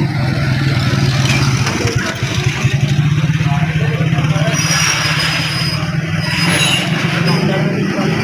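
A motor vehicle engine running close by, a steady low hum with a fast pulsing beat, over general street noise.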